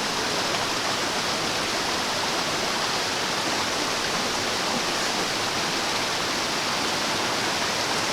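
Rushing water from a mountain stream or cascade, a steady, unbroken roar of noise.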